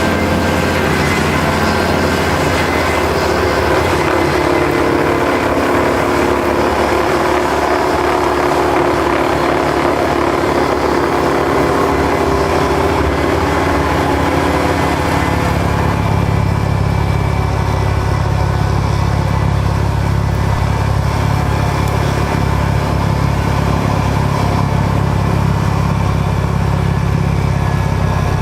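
Kubota L5740 tractor's diesel engine running steadily while clearing snow, its note changing about halfway through.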